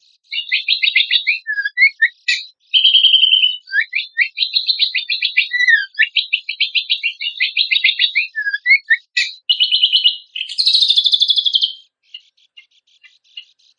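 Kecial kombok (cucak kombok) singing a rapid, varied song of trills, chips and short down-slurred whistles, with a loud buzzy trill near the end. About twelve seconds in it breaks off and leaves only faint scattered chips.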